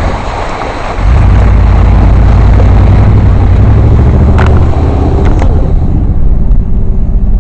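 Truck engine pulling hard as it ploughs through a mud puddle, jumping to a loud, steady low rumble about a second in. Two sharp knocks come near the middle.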